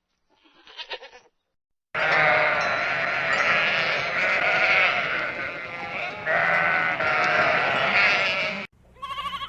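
Bleating: a faint short bleat, then a flock bleating loudly for several seconds with many overlapping calls, cut off abruptly, and another short bleat near the end.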